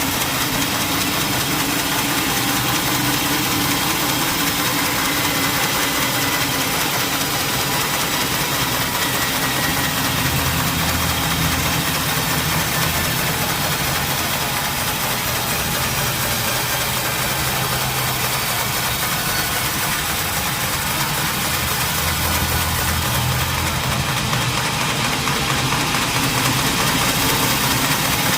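Sawmill machinery engine running steadily with a constant mechanical drone and no clear changes.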